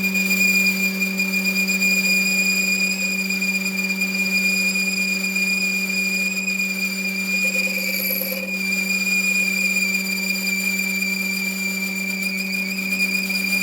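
A running workshop machine giving off a steady high-pitched whine over a constant low hum, with a brief change in the sound about eight seconds in.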